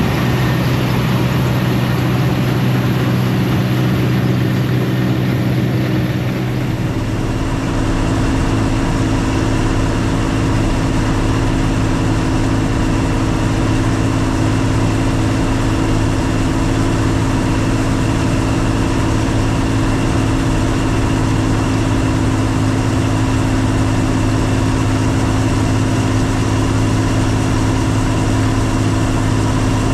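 Combine harvester running steadily during wheat harvest, a constant engine drone with its machinery noise; the tone shifts about seven seconds in, then holds.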